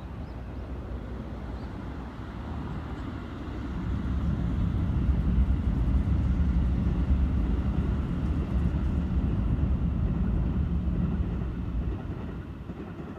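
Electric commuter train running past on the Keikyu Line: a low rumble of wheels on rail that builds about four seconds in, holds, then fades near the end.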